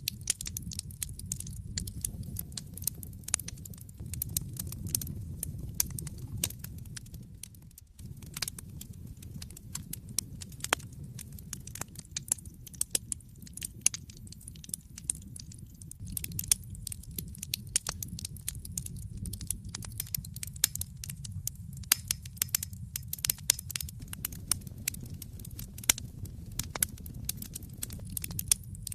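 Wood fire in an open fireplace burning steadily, with a low rumble of flame under constant irregular crackles and pops of the burning logs. The sound dips for a moment about eight seconds in.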